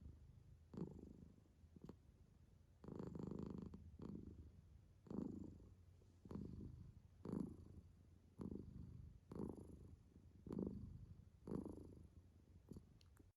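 A domestic cat purring close to the microphone, the purr swelling and fading with each breath, about once a second.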